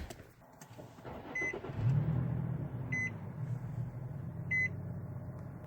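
Infiniti G35's dashboard warning chime, a short high beep repeating about every second and a half. A low steady hum from the car comes in about two seconds in.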